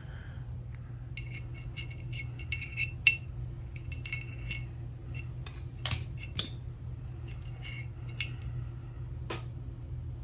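Small metal gearbox parts clicking and clinking as they are handled and fitted together by hand, a scattering of sharp ticks with brief metallic ringing, the loudest about three and six seconds in, over a steady low hum.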